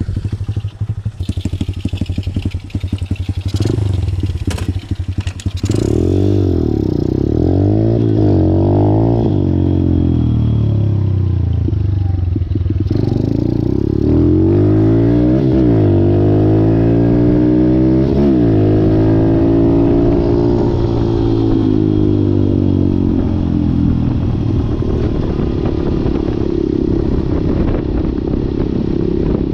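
Malcor XZ1 125cc pit bike's single-cylinder four-stroke engine running unevenly with some clatter for the first few seconds. It then goes through repeated swings of engine speed, rising and falling several times, before settling steadier near the end.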